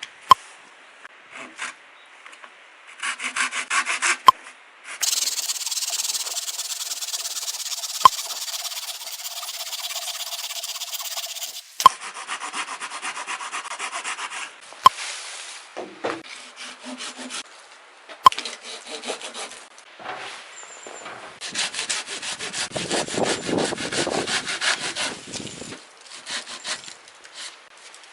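Hand saw cutting through firewood in repeated back-and-forth strokes, in several bursts with short pauses.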